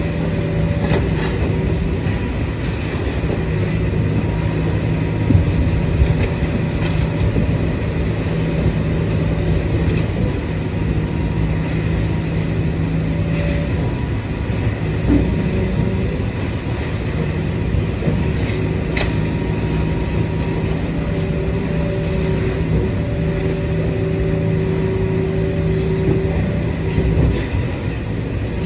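Idromec T 650 CLS hydraulic scrap metal shear baler running: a steady machine hum with several held tones, and a few sharp metallic knocks as scrap is worked.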